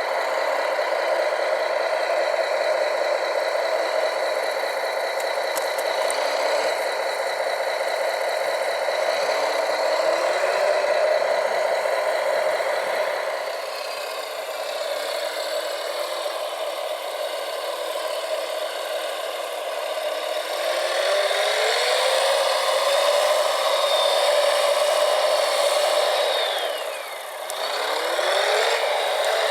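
Radio-controlled model construction machines running: small motors and gearboxes whining, their pitch rising and falling as the throttle changes, with a brief dip and a sweep down and back up near the end.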